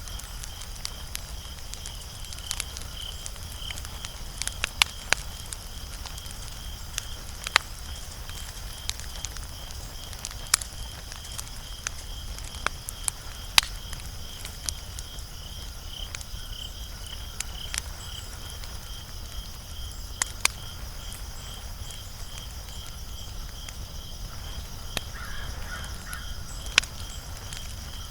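Wood fire crackling, with irregular sharp pops and snaps over a low steady rumble. A steady high, rapidly pulsing chirp runs underneath throughout.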